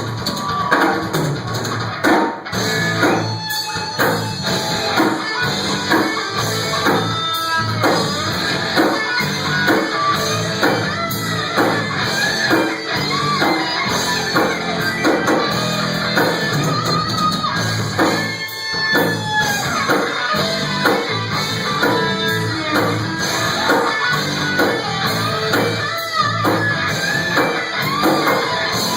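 Live rock band playing: electric guitars over a drum kit beat.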